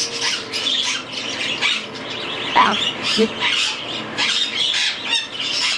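Young cockatiel chicks giving a rapid run of short, raspy begging calls, one after another, as they are handfed.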